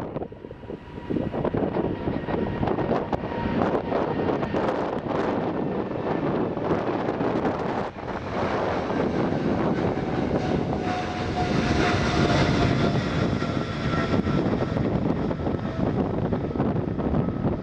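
Jet airliner engines running with a steady rumble and a faint high whine that swells about two thirds of the way through, with wind buffeting the microphone.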